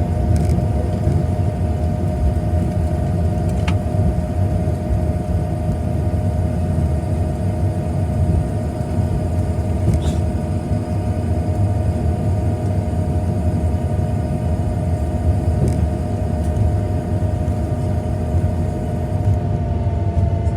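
Boeing 737-900ER cabin noise: a steady rumble from the jet engines and airflow, with a steady whine held on one pitch. A couple of faint clicks are heard in the cabin.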